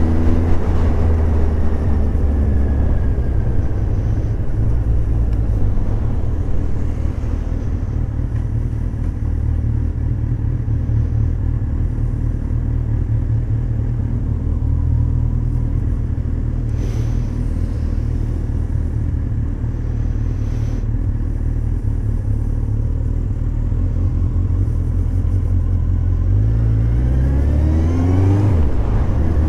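Motorcycle engine running at low, steady revs at town speed, a continuous low drone. Near the end the engine pitch climbs as the bike accelerates.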